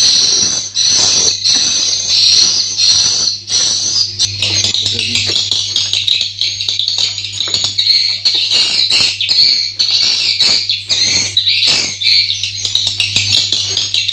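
Many swiftlets calling inside a nesting house: a dense, high twittering chorus with rapid sharp clicks. A steady low hum runs underneath.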